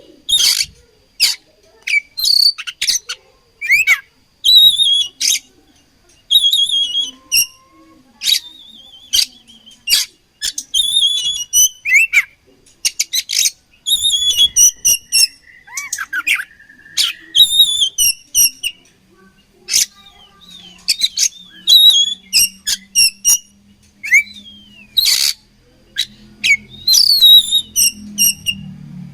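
Oriental magpie-robin (kacer) singing in rapid bursts of sharp, loud chirps and short whistled phrases, with many brief pauses between bursts.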